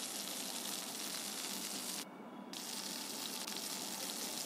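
Slices of taro root (kochu) shallow-frying in soybean oil in a pan on medium heat, a steady sizzle as they brown. The sizzle dips briefly about two seconds in.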